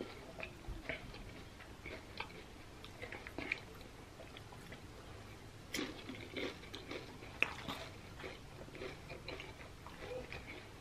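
A person chewing nachos, tortilla chips with cheese and ground beef: faint crunches and wet mouth clicks, with a few louder crunches around the middle.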